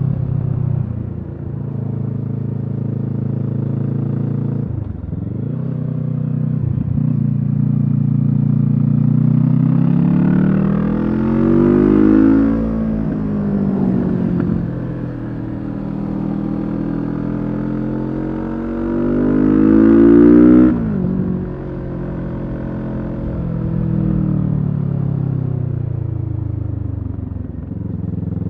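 Kawasaki Z650's parallel-twin engine through a LeoVince EVO carbon exhaust, under way: brief dips in the revs about five and seven seconds in, then the revs climb to a peak about twelve seconds in and fall back. A longer climb reaches the loudest point about twenty seconds in and drops off sharply, and the engine then runs steadily.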